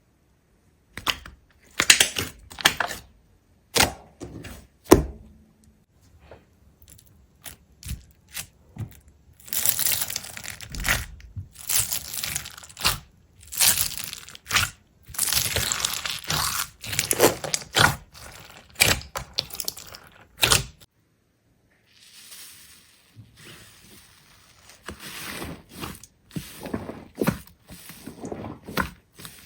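Something brittle being crunched and torn: sharp cracks at first, then longer stretches of dense crunching, and softer rustling after a short pause near the end.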